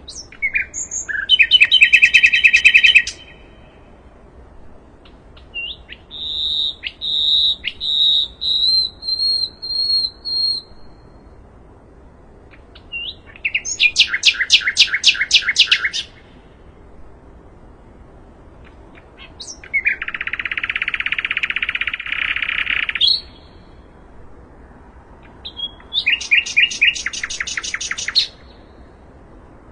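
Common nightingale singing in separate phrases a few seconds apart: a fast run of repeated notes, a series of clear whistled notes, quick rattling trills, and one harsh buzzing phrase.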